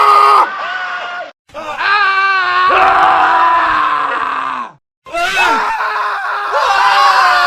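Men screaming, one scream cut straight after another: a scream breaks off about half a second in, a long scream with a wavering pitch starts after a short gap, and after a second brief silence another scream begins near the end.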